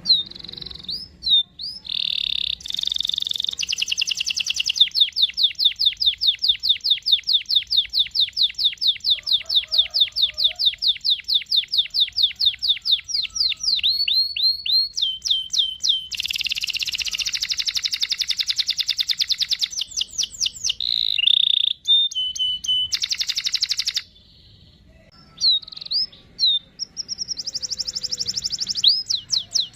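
Domestic canary singing, with long rolling trills of rapidly repeated high notes; one roll lasts about nine seconds. Shorter rolls and chirps follow, with a brief pause a little after the middle.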